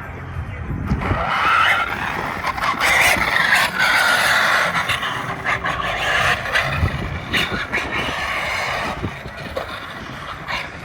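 Radio-controlled monster truck being driven. Its electric motor whine slides up and down with the throttle over tyre scrabbling, starting about a second in.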